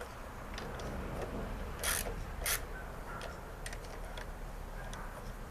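Scattered short metallic clicks of a wrench snugging down the nuts on a lawnmower's carburetor plate, two of them louder about two seconds in.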